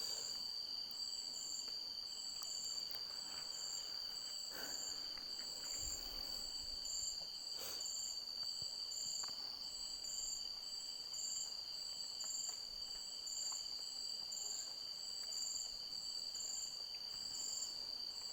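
Insects chirring: a steady high trill with another insect's pulsed chirp repeating about twice a second. There are a couple of faint clicks, about four and a half and nearly eight seconds in.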